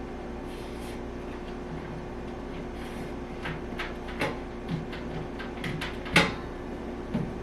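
Light plastic knocks and clicks as the lint filter of a portable clothes dryer is handled and fitted back into its housing: scattered taps in the second half, with one sharper click about six seconds in.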